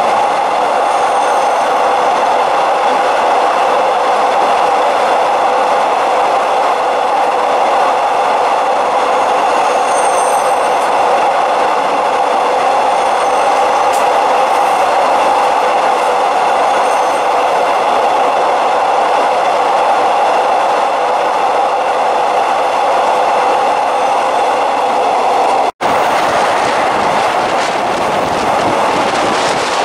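Passenger train of the State Railway of Thailand running along the track, heard from the train itself: a steady loud rush of wheel and rail noise. It cuts out for an instant about three-quarters of the way through, then goes on the same.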